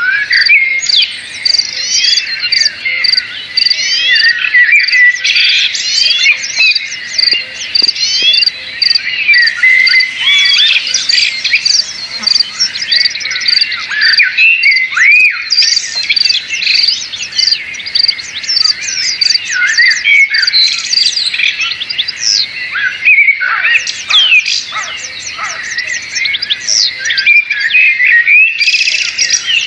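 A dense chorus of many birds chirping and calling over one another. Behind it, a steady high pulse repeats about twice a second.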